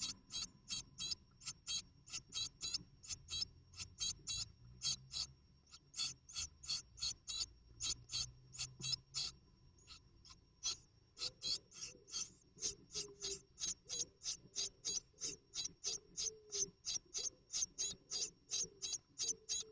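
Great tits in a nest box giving a fast, even series of short, high, rasping calls, about three to four a second, with a brief pause about ten seconds in.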